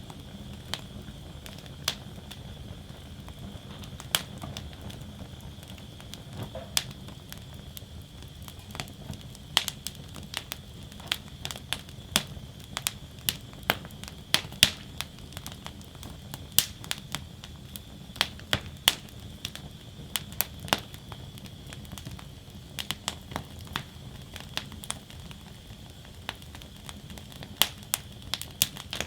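Wood fire burning in a steel fire basket: irregular sharp crackles and pops, several a second, over the steady low rush of the flames.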